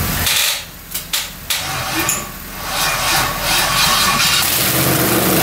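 Freshly rebuilt LS V8 running rough on its first start, then cutting off just after the start. Hissing and a few sharp clicks and knocks follow, with a low uneven rumble returning in the second half.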